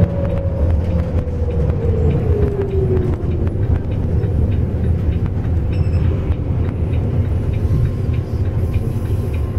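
Diesel bus engine and road rumble heard from inside the passenger cabin while the bus drives. A whine falls in pitch over the first three seconds, then the steady rumble carries on.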